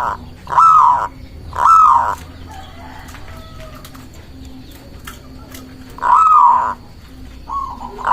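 Zebra dove (perkutut) cooing in short, loud, arching notes: two in the first two seconds, a pause of about four seconds, then more coos near the end.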